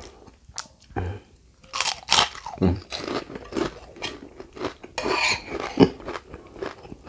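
Close-up chewing and crunching of a crisp, unflavoured red Padang cracker (kerupuk merah), in irregular crunches.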